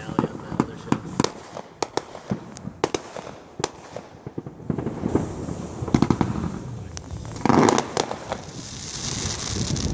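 Aerial fireworks launching and bursting several hundred feet away: a rapid, irregular string of sharp bangs and pops, with a louder burst about seven and a half seconds in and a hiss building near the end.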